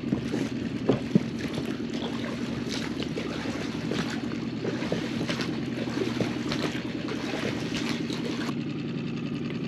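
Water trickling and splashing over rock in a steady stream, with two sharp clicks about a second in.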